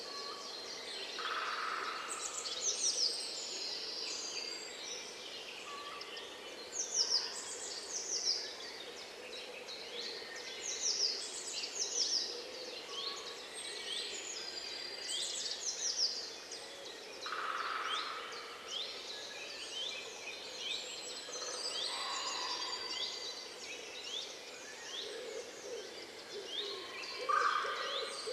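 Several songbirds singing together, a dense chorus of quick high chirps and trills over a faint steady background hiss.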